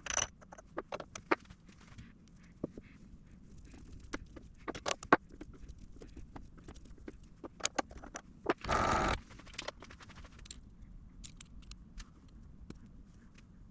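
Scattered light clicks and knocks, as of small tools or metal parts being handled on a workbench, with one loud half-second burst of hissing noise about nine seconds in.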